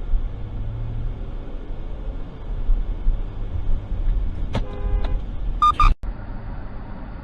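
Steady road and engine rumble of a moving car, with a car horn honking for about half a second past the middle. A louder brief sound follows, then the sound cuts off abruptly.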